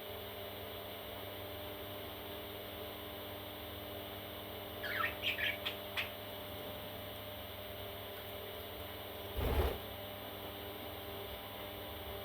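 A parrot chick gives a quick run of about five short, high squeaky chirps about five seconds in, over a steady electrical hum. A short thump follows a few seconds later.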